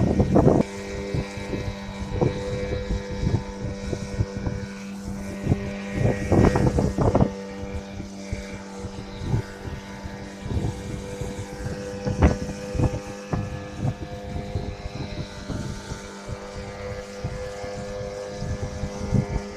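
A river boat's motor running with a steady drone, cut through by irregular knocks and thumps, heaviest about six to seven seconds in and once sharply about twelve seconds in.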